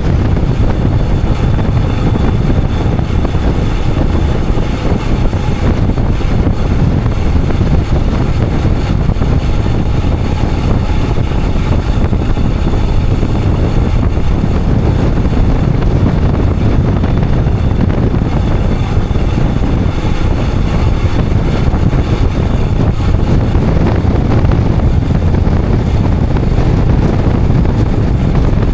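Royal Enfield Himalayan 411's single-cylinder engine running at a steady road speed, mixed with wind rushing over the action camera's microphone. The level holds even throughout, with no gear changes or revving that stand out.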